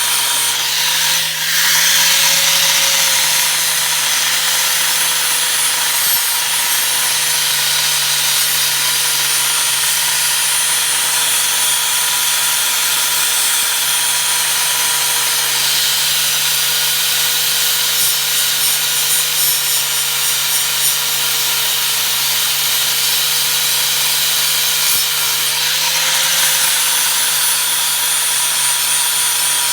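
Angle grinder running steadily on the truck frame's steel. Its pitch rises briefly about a second in and again near the end, as the load eases.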